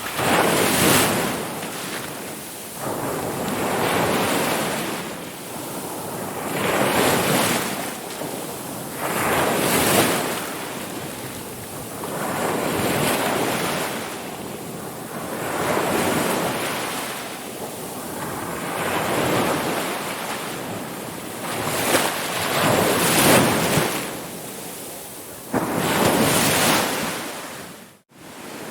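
Ocean waves breaking and washing in, one swell after another every few seconds. The sound cuts out for a moment near the end.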